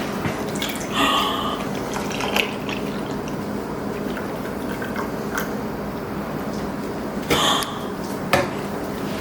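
Milk being poured into a container, a steady pour with dripping.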